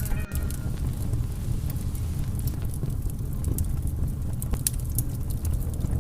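Fireplace crackling with scattered sharp pops over a steady low rumble of wind.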